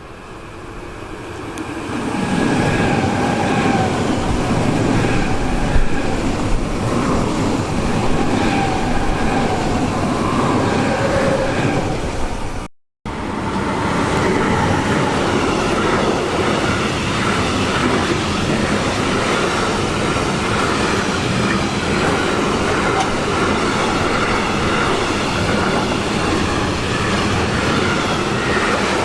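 A train passing close by, its wheels rumbling over the rails with faint steady whining tones on top. It swells up over the first two seconds, drops out for an instant near the middle, then runs on steadily.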